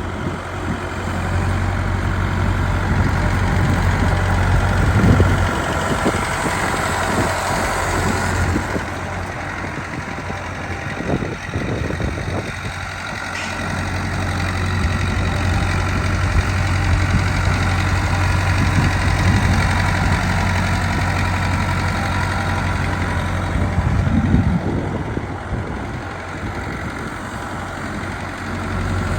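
Massey Ferguson 165's four-cylinder Perkins diesel engine running at idle with a steady low hum, its loudness swelling and easing a few times.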